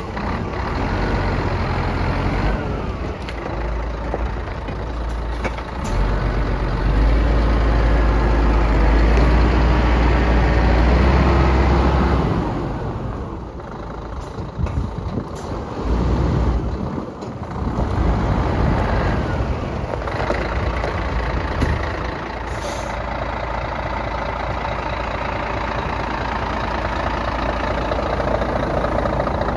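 Scania P124L 420 tractor unit's inline-six diesel engine running, held at higher revs for several seconds before easing off and settling into a steady idle for the last third.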